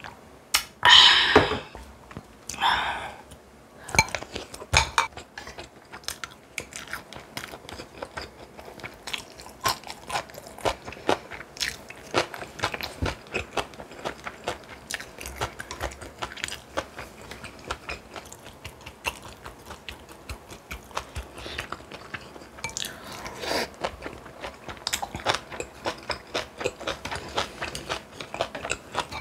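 A person chewing and crunching food close to the microphone: a dense run of small, irregular clicks and crunches, with two louder, noisier sounds in the first three seconds.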